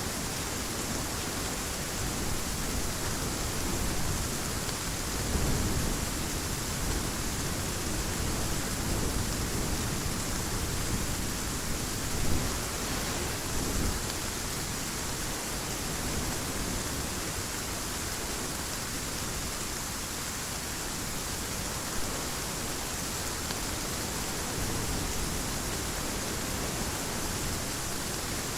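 Heavy rain falling steadily, with a couple of low rumbles of thunder swelling up about five seconds in and again around twelve to fourteen seconds in.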